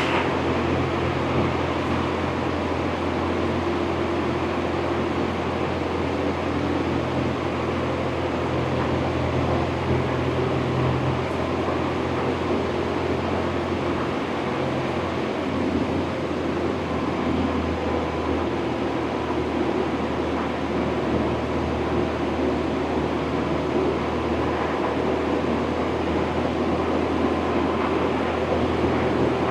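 BMW R1100RT's air/oil-cooled boxer twin running steadily on the move, with wind and road noise over it. The engine note shifts briefly about halfway through.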